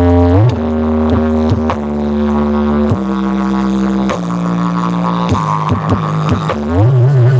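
Bass-heavy music played loud through a large horeg sound system: long, deep bass notes that slide from one pitch to the next, with a wobbling pitch glide near the end.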